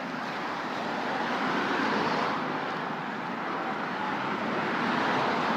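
Road traffic passing: a steady hiss of tyres and engines that swells as cars go by, loudest about two seconds in and again near the end.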